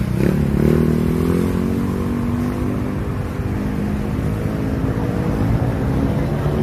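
A motor vehicle's engine running steadily, its pitch drifting slowly.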